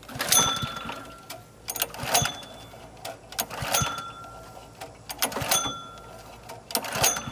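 Recoil pull-cord starter of a Honda pressure washer engine yanked five times, about every second and a half, each pull a zipping rattle with a short whine. The engine turns over without catching, a hard start.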